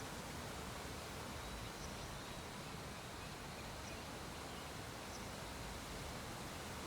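Steady low hiss of background room tone, with a faint high whine and a few tiny high ticks scattered through it.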